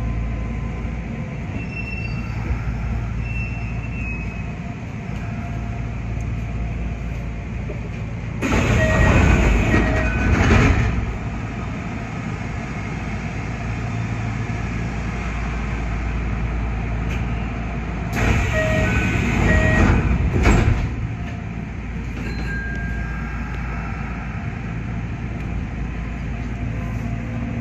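Kintetsu 5800 series electric train running on a steel truss bridge, heard from inside the cab: a steady rumble of wheels on rail. The noise grows into two louder stretches of rattle, each about two seconds long, about nine and nineteen seconds in.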